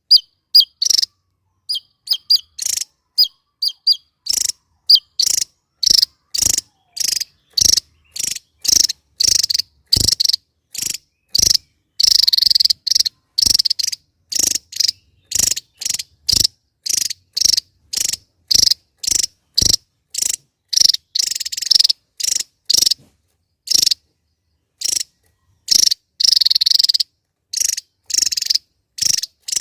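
Javan tesia singing: a long series of short, sharp, high-pitched notes at about two a second, with a few longer notes about twelve seconds in and again near the end.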